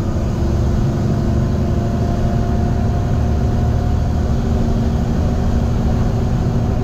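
Semi-truck's diesel engine running steadily under load, pulling a loaded 55,000-pound refrigerated trailer, with a steady low rumble and a faint even hum over it.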